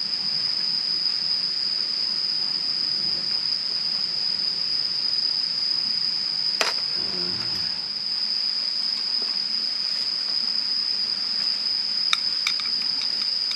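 Crickets singing in one steady, unbroken high-pitched trill, with a single sharp click about six and a half seconds in and a few light ticks near the end.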